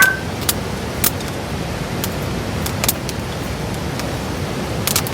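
Fire crackling: sharp pops every half second to a second over a steady hiss.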